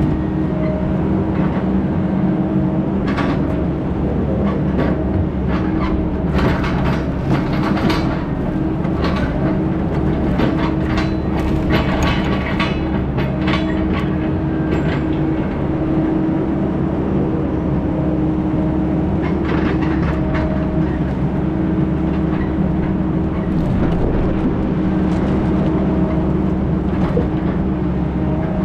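A large engine running steadily, with bursts of rattling and clanking in the first half and again briefly later on.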